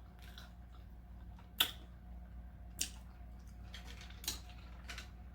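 Close-miked chewing of a taco: quiet mouth sounds with a few sharp, wet smacks, the loudest about one and a half seconds in.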